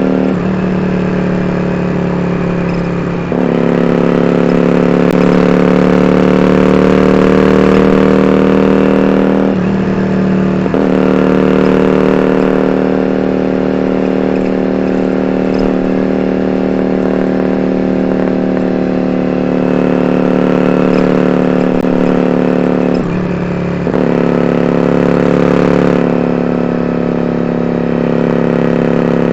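Yamaha Drag Star 400 Classic's air-cooled V-twin running through 4-inch open-end dual Supertrap mufflers as the bike is ridden. The steady exhaust note is broken a few times by brief dips where the pitch steps, as on gear changes.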